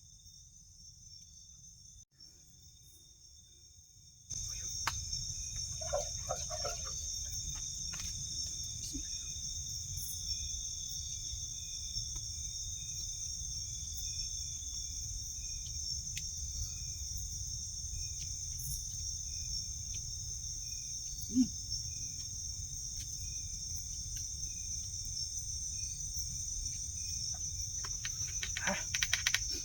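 Crickets and other insects chirring in a steady, pulsing high chorus, with a few faint clicks and taps. The chorus comes in suddenly about four seconds in, after a much quieter opening, and a cluster of crackling clicks comes near the end.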